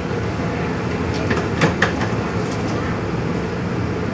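Singapore underground metro train running: a steady rumbling noise, with a few sharp clicks about a second and a half in.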